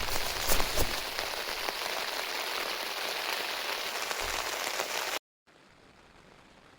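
Heavy rain falling on a surface, a dense steady hiss with sharp individual drop hits. About five seconds in it cuts off abruptly to a faint hiss.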